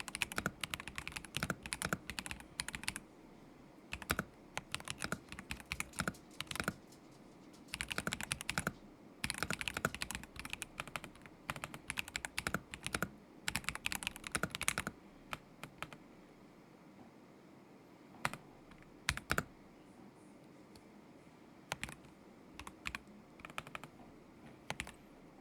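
Typing on a KZZI K75 Pro mechanical keyboard with Moment linear switches: quick runs of keystrokes with short pauses, thinning out about halfway through to only a few scattered single key presses.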